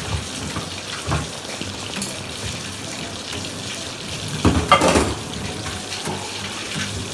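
Chicken pieces shallow-frying in oil with a steady sizzle. A louder clatter comes about four and a half seconds in.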